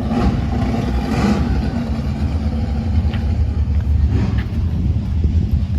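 A car engine running with a steady, deep low rumble.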